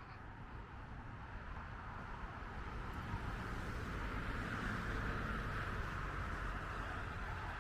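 City street traffic: a passing vehicle's noise slowly swells to a peak about five seconds in and eases off a little, over a steady low rumble.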